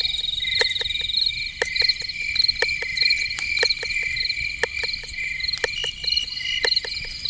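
Crickets chirping in several overlapping pulsed trills, with sharp irregular clicks scattered through; a night-time insect chorus.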